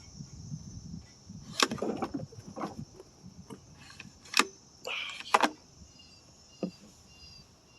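Several sharp clicks and knocks at irregular intervals, the loudest about one and a half, four and a half and five and a half seconds in, over a steady high trill of crickets.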